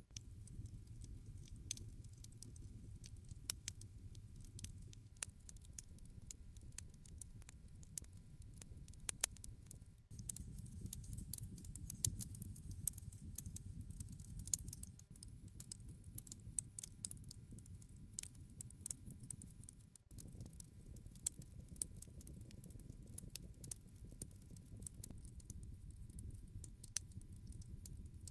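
Wood campfire burning, with frequent irregular sharp crackles and pops over a steady low rumble of the flames.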